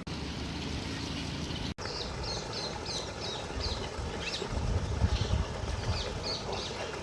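Birds chirping in a series of short, high calls, about two a second, over a low rumble. The sound cuts out for an instant shortly after the start, then the chirping resumes.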